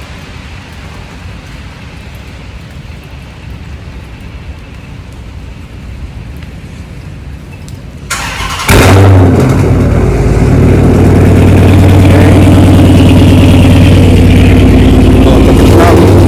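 A steady hiss, then about eight seconds in a starter cranks briefly and a 5.7-litre V8 fires. It settles into a loud, steady idle through its freshly installed aftermarket exhaust.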